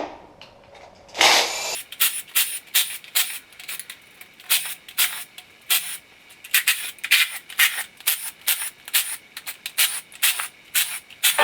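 Tool work loosening the valve cover bolts on a GMC 3.7 L Atlas inline-five engine: one short power-tool burst about a second in, then a long run of quick short tool strokes, about two to three a second.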